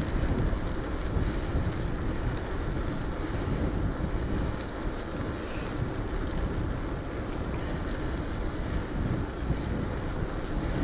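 Wind buffeting a GoPro's microphone on a moving electric bike: a steady, unbroken rush of noise, heaviest in the low end.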